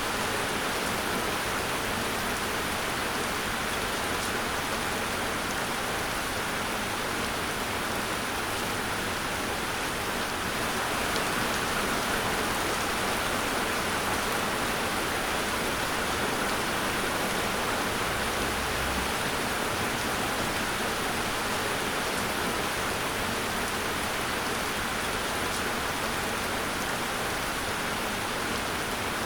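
Steady rain falling, an even hiss of drops on a surface with no thunder.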